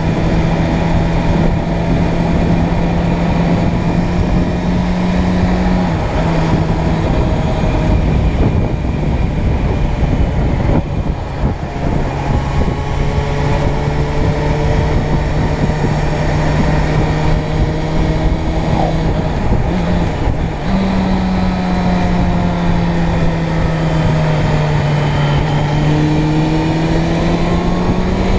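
Motorcycle engine running at steady cruising revs under heavy wind and road noise. The engine note drops about six seconds in, rises again about twenty seconds in, then sags slowly and climbs once more near the end.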